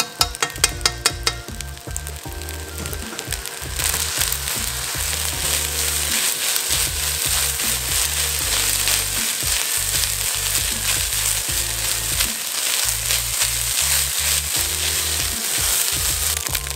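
Fried rice sizzling in a hot non-stick wok as it is stirred and tossed with a silicone spatula. The sizzle grows louder about four seconds in and then holds steady. A quick run of sharp taps comes in the first second.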